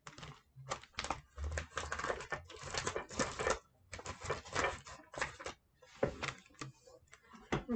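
Crumpled paper crinkling and crackling as it is handled, in irregular clusters of small crackles.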